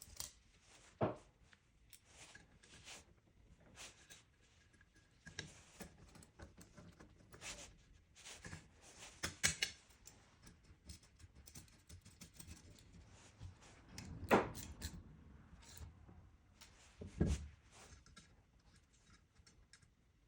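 Irregular small clicks, scrapes and knocks of hand work with metal parts, with four louder knocks, the loudest about two-thirds of the way through.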